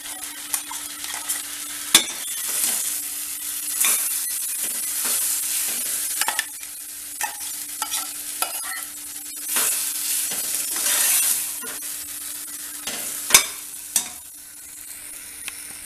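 A spoon stirring and scraping in a pan of chicken and ground tomato-onion paste, which sizzles as it cooks. The sizzle swells and fades with the stirring, broken by sharp clacks of the spoon on the pan.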